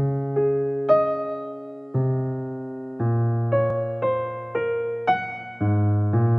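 Piano or electric piano music: slow chords and notes struck one after another, each ringing and fading before the next.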